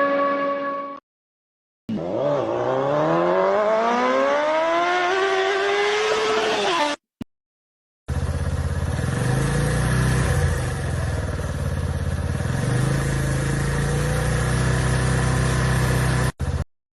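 A string of separate vehicle sound-effect clips. A steady multi-tone sound ends about a second in; after a short gap an engine revs up in one long rising pitch for about five seconds and cuts off; after another gap an engine runs at a low, mostly steady pitch with a couple of brief dips for about eight seconds.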